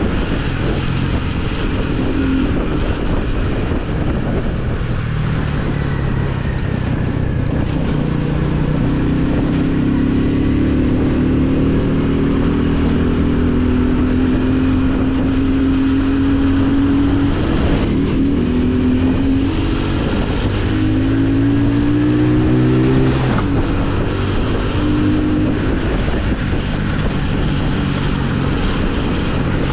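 Motorcycle engine running under way, heard over heavy wind rumble on the microphone. It holds a steady speed for a while, then accelerates hard partway through, climbing and dropping in pitch several times as it shifts up through the gears.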